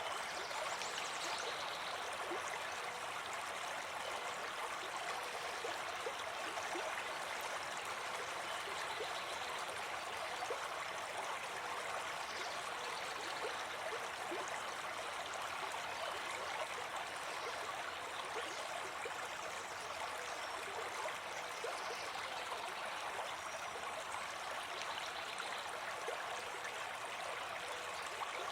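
A brook babbling and trickling steadily.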